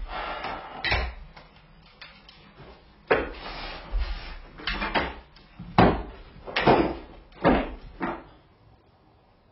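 Knocks and clunks of a newly installed wood-burning stove being tended while the fire is lit, its door and wood being handled, about eight knocks with rustling between. The sounds die away near the end.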